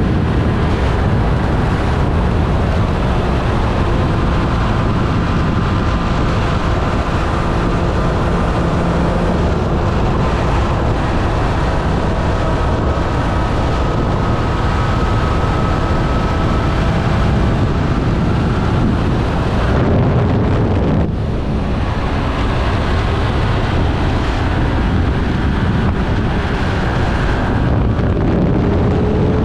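2024 Triumph Street Triple 765 RS's inline three-cylinder engine running at road speed under heavy wind rush on the microphone. The sound dips briefly about twenty seconds in, and the engine's pitch climbs near the end.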